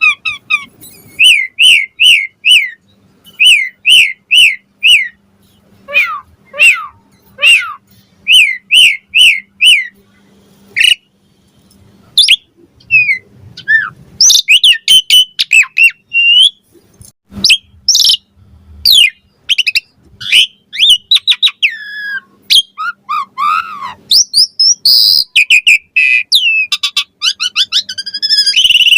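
Asian pied starling (jalak suren) singing a long, varied song: runs of four or five quick repeated whistled notes, then a dense jumble of whistles, downward-slurred notes and harsh chattering notes.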